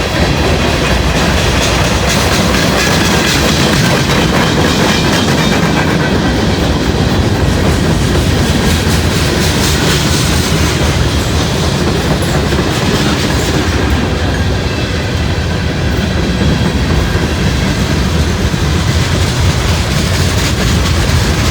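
Long freight train of mixed manifest cars rolling past at close range, with a steady loud rumble and the clickety-clack of wheels over the rail joints.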